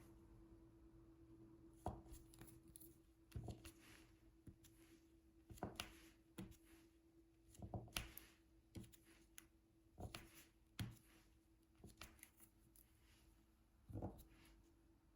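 Soft, irregular clicks and taps of a diamond painting drill pen picking up small resin drills and pressing them onto the adhesive canvas, about one a second, over a faint steady hum.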